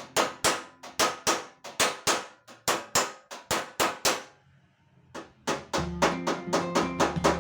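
Hammer tapping out a dent in a car's sheet-metal body panel: quick ringing strikes, about three to four a second, pausing briefly about four seconds in and then resuming.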